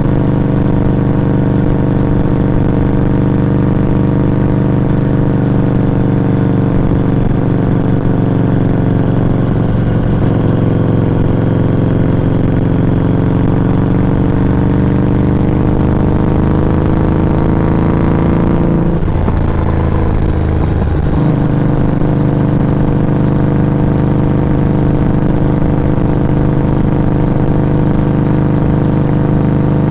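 Harley-Davidson Street XG 500's V-twin heard close at its Firebrand Loose Cannon slip-on muffler while riding: a steady exhaust note that climbs slowly in pitch, breaks briefly about two-thirds through as with a gear change, then runs on at an even pitch.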